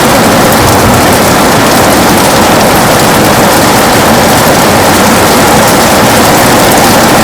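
Heavy rain beating on a window: a loud, steady hiss with fine pattering of drops throughout.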